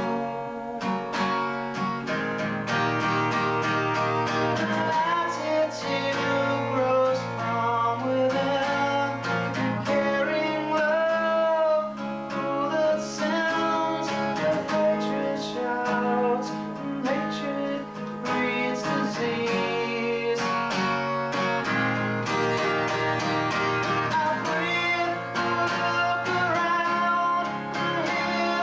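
Acoustic guitar music with a wavering melody line over the strumming, recorded through a basic VHS camcorder microphone.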